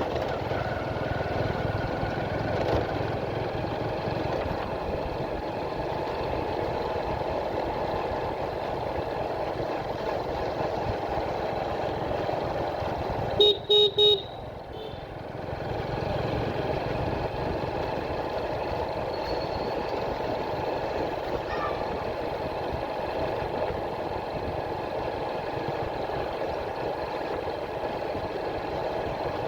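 Motorcycle running along the road with steady engine and wind noise. About halfway through, a horn gives three short beeps in quick succession, and the engine noise drops for a moment just after.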